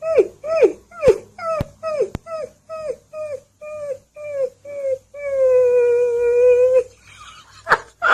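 Alaskan Malamute puppy giving a quick run of short whimpering "woo" calls, each dropping in pitch, about two a second. Then it holds one long, steady howl for nearly two seconds.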